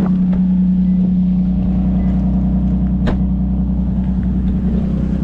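Lexus IS250's 2.5-litre V6 engine running with a steady low hum, and a single sharp click about three seconds in.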